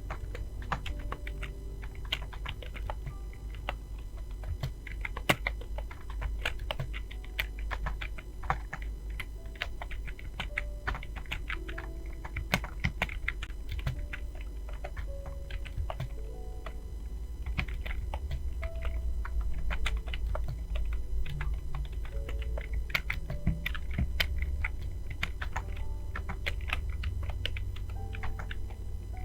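Computer keyboard typed on rapidly and continuously in a typing test, with many irregular key clicks several times a second. Soft background music plays underneath.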